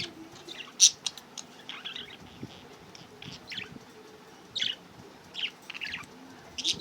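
Budgerigars chirping and chattering in short, irregular high-pitched calls, with the sharpest chirp about a second in.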